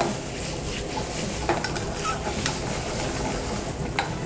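Sautéed mushrooms and frozen mango dice sizzling in a frying pan on a gas burner while a spoon stirs them. A few light clicks of the spoon against the pan come through, the last near the end. The mango is thawing over the heat.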